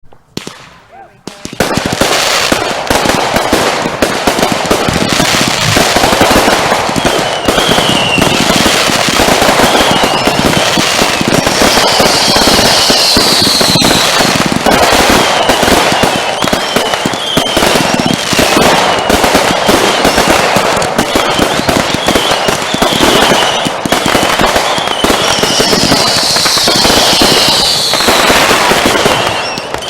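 Consumer firework cakes firing a continuous barrage of bangs and crackles, starting suddenly about a second and a half in. Short high whistles recur through it, with two longer falling whistles, one about halfway and one near the end.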